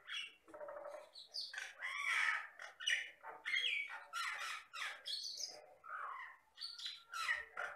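A Jalak Batam (common myna) singing a fast, varied run of harsh squawks, chatters and gliding whistled notes, one after another with barely a pause.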